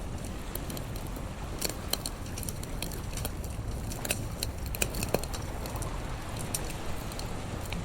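Wood fire crackling with irregular sharp pops, over a low steady rumble of sea surf.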